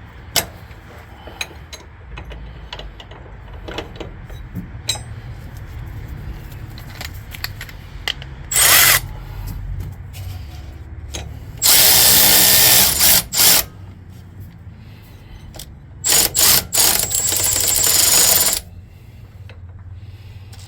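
Power driver running bolts for an air bag suspension bracket in three spells: a short burst, then a longer run with brief stops, then a few quick bursts and another longer run. Small metal clicks and clinks come in between.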